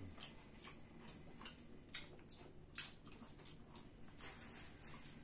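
People chewing french fries: faint, irregular clicks and crunches of eating, the loudest a little under three seconds in.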